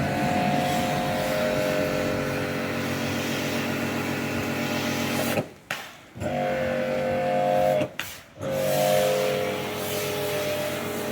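Pressure washer running steadily with a motor hum and whine. It stops twice for about half a second and starts up again.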